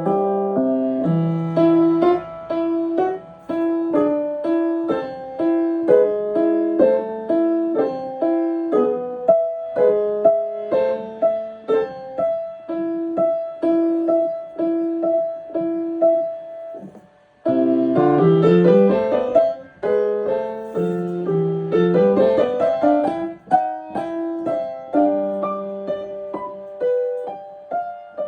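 Piano played solo: a steady stream of evenly struck notes, a brief break about seventeen seconds in, then quick rising runs of notes.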